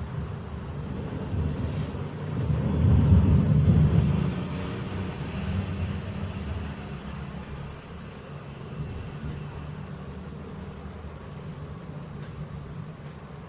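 Rolling thunder from an electrical storm: a deep rumble that swells about two to four seconds in, then slowly dies away.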